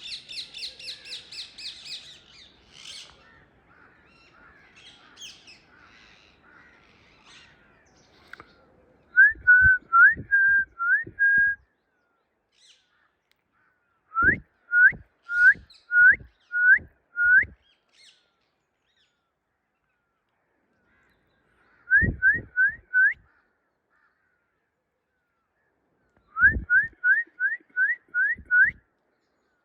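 Birds calling: a fast run of high chattering notes at first, then four loud bouts of short upswept whistled notes, each bout four to seven notes in quick succession, with silent gaps between.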